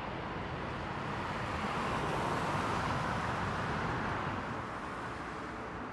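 Jet airliner's engines passing by: a steady rush of engine noise that swells to a peak about two to three seconds in and then fades.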